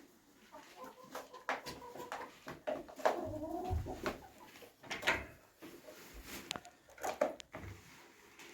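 Domestic hens clucking, with a longer wavering call about three seconds in, among short scratchy clicks.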